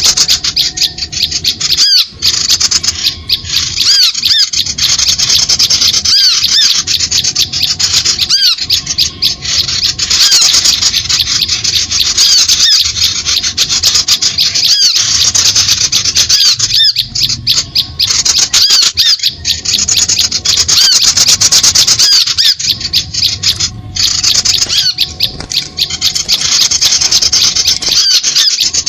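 Loud, continuous mass of small-bird squawks and chirps, a bird-trapping lure recording. The fast, high-pitched calls come thickly one after another, with a few brief drops about every few seconds.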